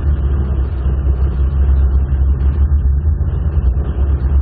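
Modified Jaguar E-type engine running steadily at low revs, a deep even rumble with road and wind noise from the moving car.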